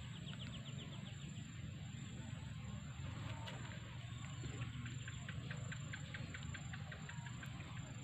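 Outdoor ambience with a bird's rapid chirping trill, heard briefly near the start and again for about three seconds from the middle, over a steady high insect-like whine.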